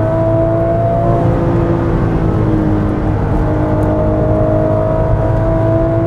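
Porsche 996 GT3's naturally aspirated 3.6-litre flat-six pulling hard under full throttle at high speed, its note rising slowly as the car accelerates, with road and wind noise heard from inside the cabin.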